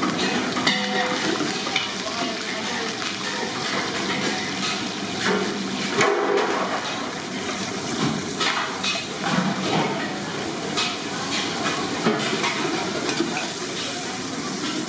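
Oil sizzling in a large aluminium pot as green chillies and then sliced onions fry, with a long metal ladle scraping and knocking against the pot.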